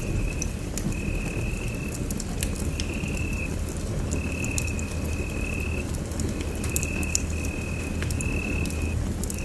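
Wood fire burning in a fireplace: a steady low rumble with scattered sharp crackles and pops. Over it, a high-pitched trill keeps repeating in bursts of about a second.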